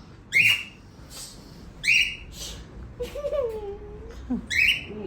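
Pet parrot squawking: three short, harsh calls about a second and a half apart, with a softer gliding call between the second and third.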